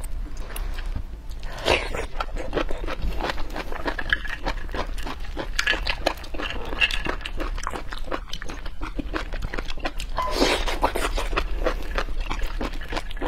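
Close-miked wet chewing, lip-smacking and mouth clicks from eating raw blood clams, with two louder wet bursts, one near the start and one past the middle.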